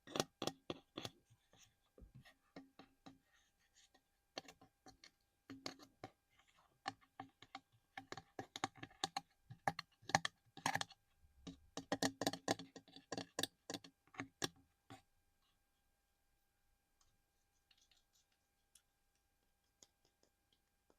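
Fingernails tapping and scratching on small collectible objects in quick, irregular clusters of clicks, like fast typing. The tapping stops about fifteen seconds in, and only a few faint ticks follow.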